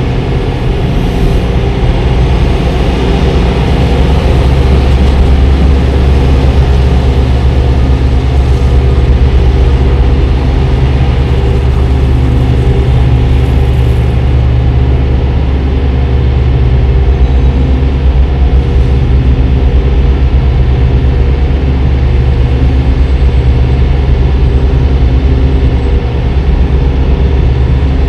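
Semi-truck's diesel engine running steadily and loud.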